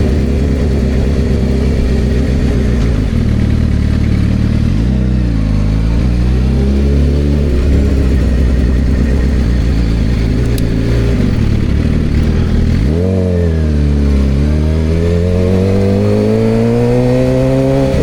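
Suzuki GSX-R750 inline-four with an aftermarket slip-on exhaust, ridden on the road. The revs dip and climb again about five seconds in, then drop sharply near thirteen seconds and rise steadily under acceleration.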